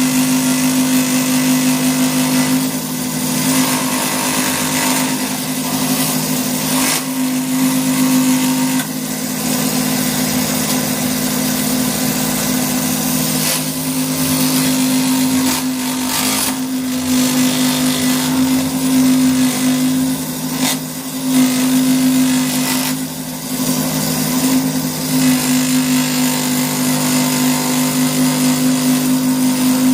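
Electric power-tool motor running steadily with a constant low hum while it works wood, the cutting adding a rasping noise that comes and goes in short bursts.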